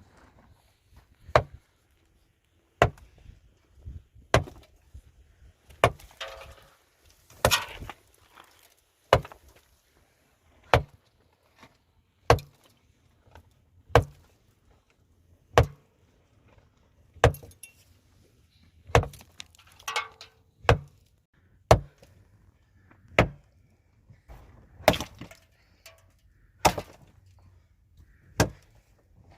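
A hand tool striking hard over and over in a steady working rhythm, about one heavy blow every second and a half, like chopping.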